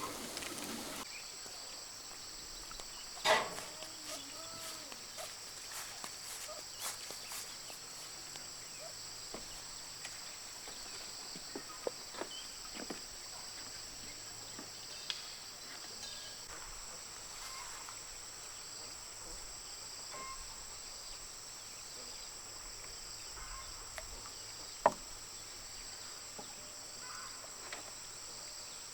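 Steady, high-pitched insect chorus. Scattered small knocks and clicks sound over it, the loudest about three seconds in and near the end.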